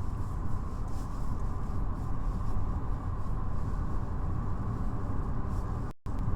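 Steady road and engine rumble inside a moving car's cabin, broken by a split-second gap near the end.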